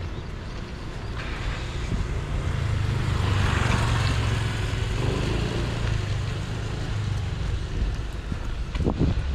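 A car passing on the street: a low engine rumble under tyre hiss that swells to a peak about four seconds in and then fades.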